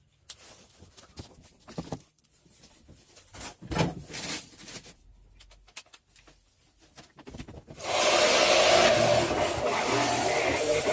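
Scraping and rubbing of hand work, with scattered clicks. About eight seconds in, a motor-driven tool starts and runs loud and steady.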